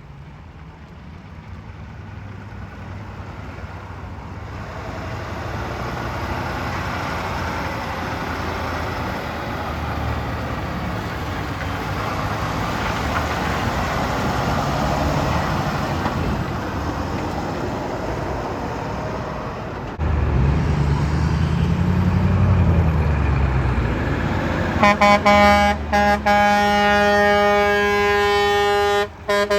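Trucks passing on a road: engine rumble and tyre noise build up, and about 20 seconds in a loud engine note rises and falls as a truck goes by. About 25 seconds in, music with long held notes comes in.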